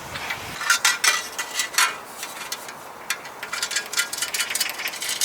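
An irregular series of light clinks and rattles, some with a brief ring.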